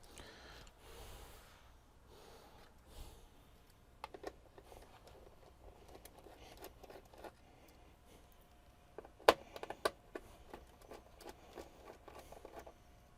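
Scattered small clicks, taps and light scrapes of objects being handled, with one sharp click about nine seconds in.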